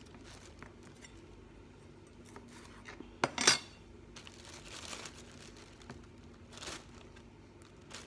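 Kitchen handling while capsicums are cut and bagged: two sharp knocks a little past three seconds in, with softer rustles and taps around them.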